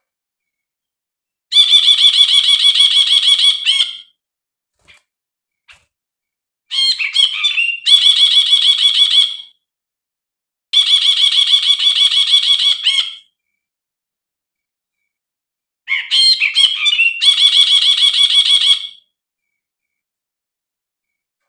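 Brinji, a bulbul, singing in four bursts of fast, rapidly repeated chattering notes, each lasting two to three seconds with a silent gap between. Two bursts open with a short jumbled lead-in. This is a looped lure recording meant to set a caged brinji singing.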